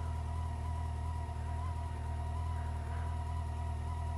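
Motorcycle engine idling steadily, an even low hum that doesn't change.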